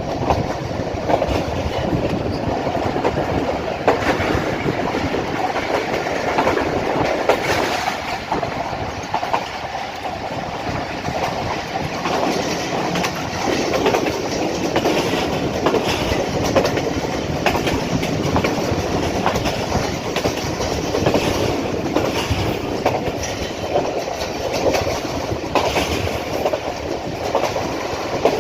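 Passenger train running at top speed: a steady rumble of the carriages, with short clicks of the wheels passing over rail joints.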